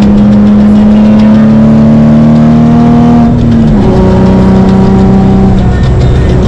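Nissan 350Z's V6 engine pulling under acceleration, its pitch climbing slowly, then dropping sharply a little over three seconds in, as at an upshift, and running on at a lower, steady pitch.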